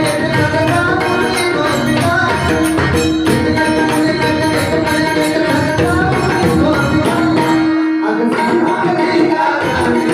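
Marathi gaulan devotional music: a tabla-type hand drum and jingling percussion keep a steady rhythm under held melodic tones. The low drum sound drops out briefly about eight seconds in.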